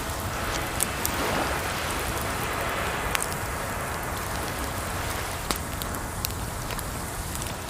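Campfire crackling over a steady rush of water, with a few sharp pops from the fire.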